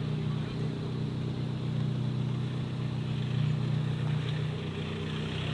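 Car engine running steadily at low revs: a deep, even drone that neither rises nor falls.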